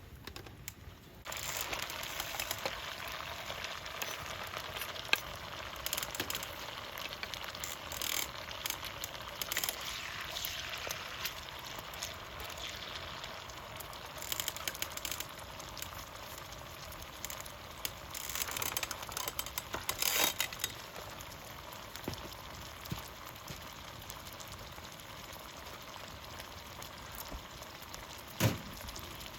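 Food frying in a hot pan: a steady sizzle that starts suddenly about a second in, scattered with crackles and pops. A single sharp knock comes near the end.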